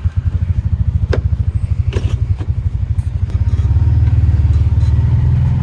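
Can-Am off-road vehicle's engine just started and idling with an even throb, with a couple of sharp clicks. From about three and a half seconds in it runs louder and steadier as the vehicle gets under way.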